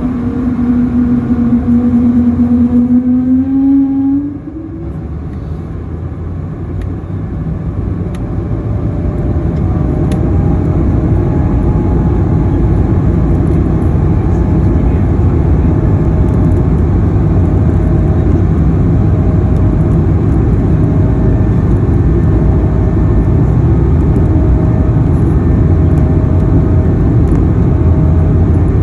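Airbus A220-100's Pratt & Whitney PW1500G geared turbofans spooling up for takeoff. First comes a whale-like tone that sags and then climbs, stopping about four seconds in. Then the loud engine rumble builds over several seconds and holds steady, with a faint high tone above it.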